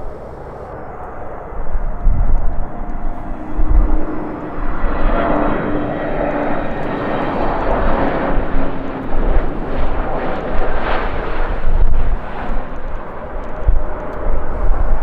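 Jet airliner's engines passing close by, a loud rushing roar with a steady whine building about two seconds in and strongest mid-way. Gusty wind buffets the microphone with low thumps throughout.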